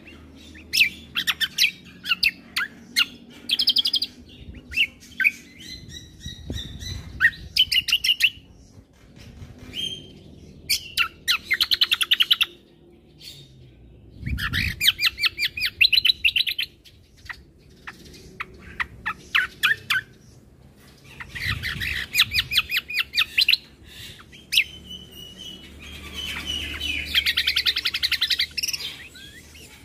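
Kecial kombo (cucak kombo) singing a varied song of fast chattering trills and sharp chirps, delivered in phrases of a second or two with short pauses between them.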